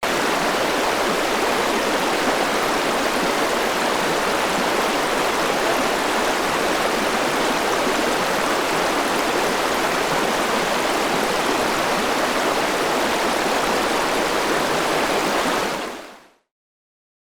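Steady rush of running water, starting abruptly and cutting off suddenly about sixteen seconds in.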